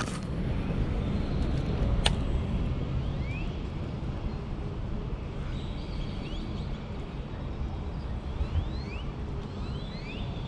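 Outdoor ambience: a steady low rumble under birds chirping in short rising notes, with a sharp click about two seconds in.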